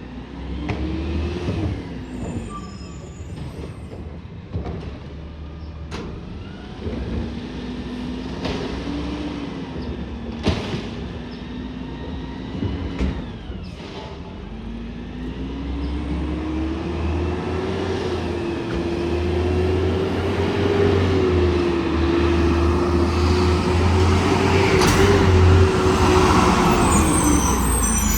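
Garbage truck diesel engine revving up and down three times, the last rev held longest and loudest, over a low rumble, with scattered sharp knocks and clanks.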